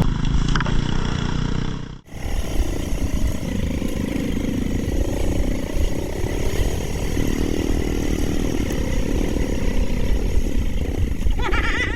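Off-road motorcycle engines running outdoors, with a heavy rumble of wind noise on the microphone. A short bit of music cuts off abruptly about two seconds in.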